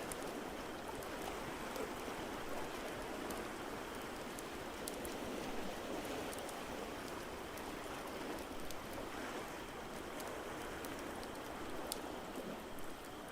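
Steady wash of water noise from ocean waves and rain, with scattered sharp crackles and pops from a wood fire in a fireplace.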